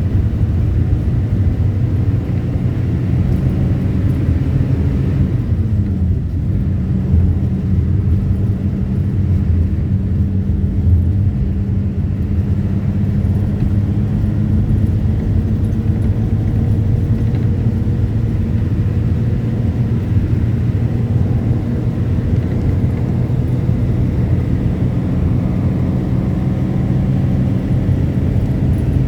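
A vehicle's engine running steadily with a loud, low rumble. Its pitch drops briefly about six seconds in.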